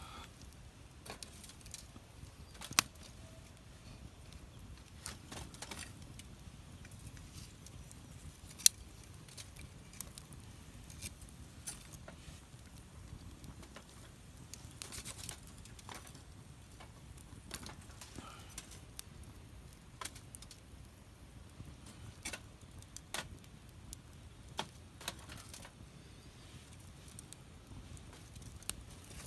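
Wood fire burning in a fire pit, crackling with irregular sharp pops, a few of them much louder than the rest.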